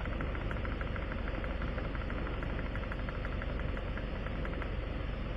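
A vehicle engine idling steadily, with a rapid, even ticking of about seven ticks a second that stops near the end.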